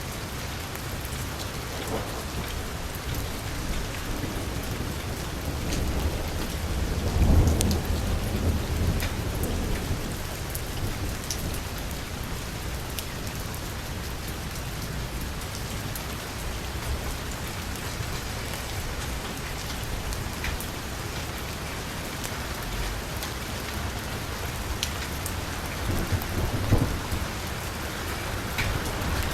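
Heavy rain falling steadily on a car's roof and window, a constant dense patter. A deep rumble of thunder swells about a quarter of the way in, and another comes near the end.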